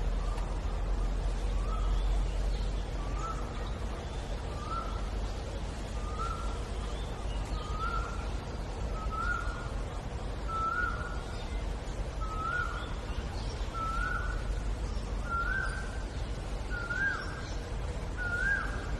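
A bird calling over and over, about a dozen short notes evenly spaced roughly a second and a half apart, each pitched a little higher than the last. A steady low rumble runs underneath.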